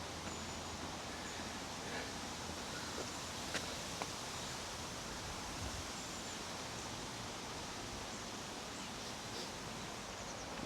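Woodland ambience: a steady, even rustling hiss, with faint high bird chirps now and then and a couple of small clicks about three and a half and four seconds in.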